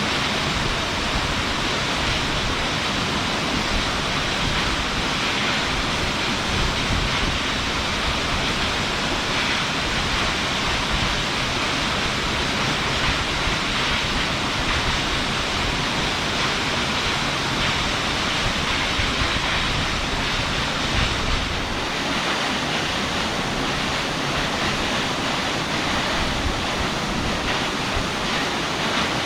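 Takizawa no Fudō Ōtaki waterfall pouring into its plunge pool: a steady, loud rush of falling water heard from in front of the falls, with an uneven low rumble underneath.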